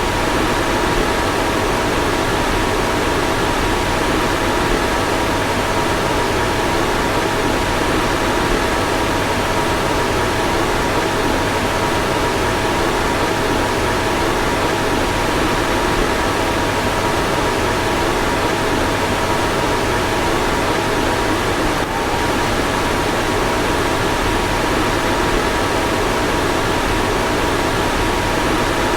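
Car fan running steadily: an even rush of air with a faint steady whine.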